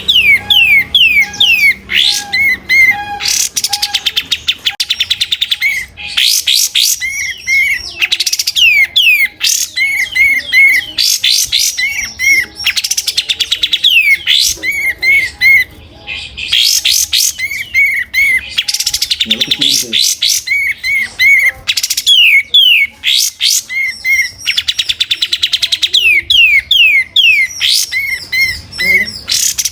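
Kapas tembak songbird singing nonstop: rapid strings of quick falling whistles and chattering notes, high-pitched, repeated in dense phrases every second or two.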